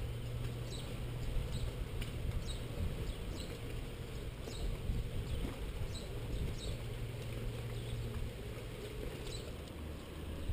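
A small bird chirping repeatedly: a dozen or so short high chirps at irregular intervals, over a steady low rumble.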